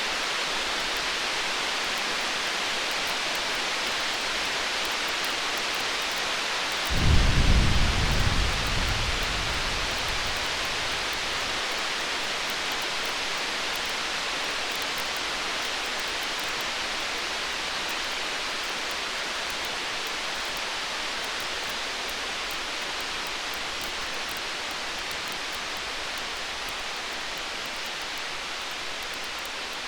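Distant thunder: one low rumble swells about seven seconds in and dies away over a few seconds. Underneath runs a steady hiss with faint crackling from a campfire.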